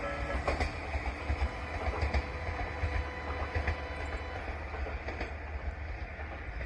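Jōmō Electric Railway train running over the rails at a level crossing: a steady low rumble, with a few wheel-on-rail clicks in the first second.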